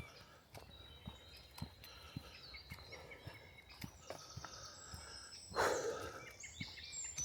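Footsteps on a woodland trail at about two steps a second, with several songbirds singing high chirps and trills. About five and a half seconds in comes a brief loud whoosh, the loudest sound.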